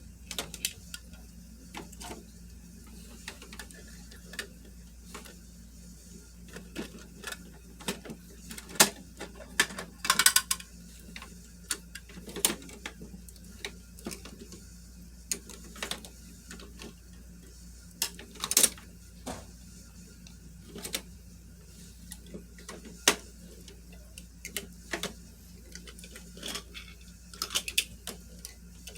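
Irregular clicks, taps and clacks of small plastic toy parts being handled, with a short rattle about ten seconds in, over a faint steady hum.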